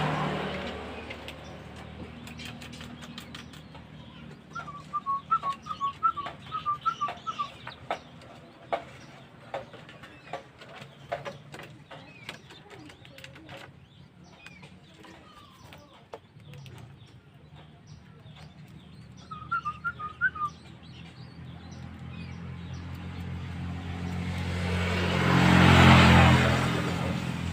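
Small bird chirping in two quick runs of short repeated notes, about four a second, with scattered light clicks and taps. A vehicle passes near the end and is the loudest sound.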